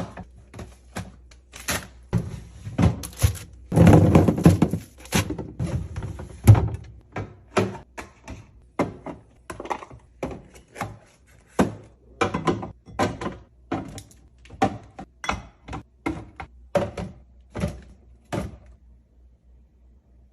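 Items being set down and arranged in a refrigerator: a run of irregular knocks and clunks, about one or two a second, with a louder jumble about four seconds in, stopping shortly before the end.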